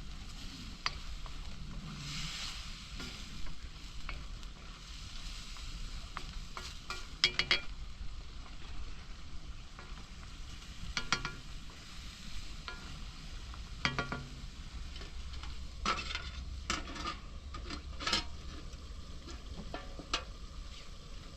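Food sizzling in a pan while it is stirred, with a utensil clinking sharply against the pan several times, most often in the second half.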